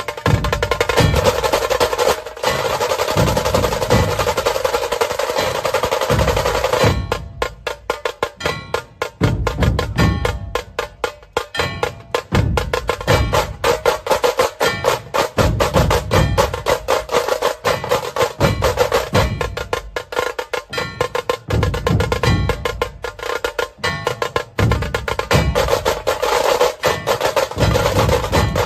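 A procession drum troupe drumming fast and loud: a dense, continuous roll for the first several seconds, then rapid separate strokes.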